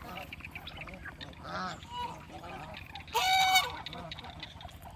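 Farmyard poultry calling while feeding: a few soft calls, then one loud call about three seconds in that lasts about half a second.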